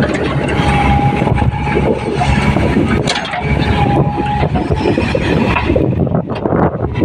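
Diesel engines of a JCB 3DX backhoe loader and a tractor running loudly and steadily, with a thin whine that comes and goes twice.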